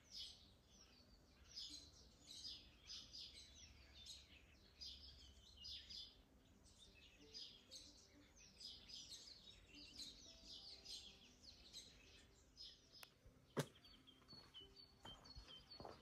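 Faint songbird chorus: several small birds chirping and trilling almost without a break. There is one sharp click about three-quarters of the way through, and near the end a bird gives a short series of evenly repeated high notes.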